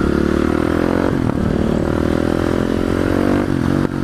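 Motorcycle engine pulling under acceleration, its pitch climbing steadily and dropping briefly at an upshift about a second in and again near the end.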